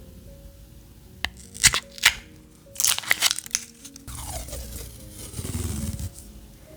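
Paper or tape being handled over soft background music: a few sharp clicks, then a cluster of tearing, crinkling rasps about three seconds in, and a longer rustling stretch whose pitch falls away over the next two seconds.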